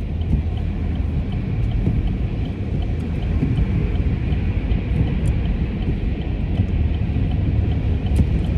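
Steady low road and engine rumble inside a moving car's cabin on the freeway, with a faint, even ticking of about two clicks a second from the turn signal as the driver moves to change lanes.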